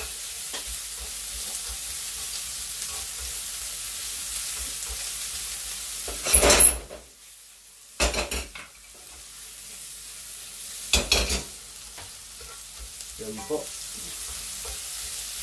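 Sliced onion, garlic and ginger sizzling in hot oil in a nonstick wok while being stirred, the aromatics being sautéed until fragrant. A few louder scrapes and knocks of the utensil against the pan come around the middle, twice close together and once a few seconds later.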